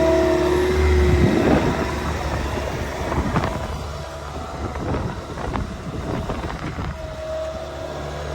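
Bobcat S66 skid steer's diesel engine running, with a steady low hum and a higher whine that dips and fades about a second and a half in, then a few short clanks of the machine working.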